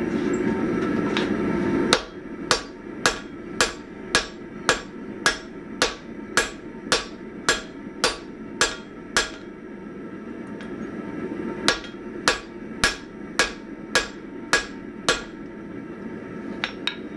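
Hammer blows on a hot 1045 steel axe blank on the anvil, about two a second in two runs with a pause of a couple of seconds between, each strike ringing briefly. A steady rushing noise runs underneath, loudest for the first two seconds before the hammering starts.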